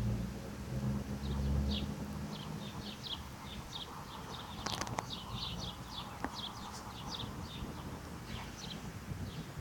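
Small birds chirping over and over, short high chirps a few times a second. A low rumble fills the first two seconds, and a sharp click sounds about halfway through.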